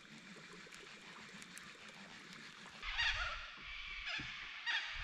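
Faint bird calls, then a bird's loud calls twice, about three seconds in and again near the end, over a low rumble.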